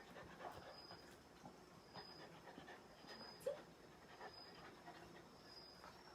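Shiba Inu panting faintly, with one short squeak-like sound about halfway through.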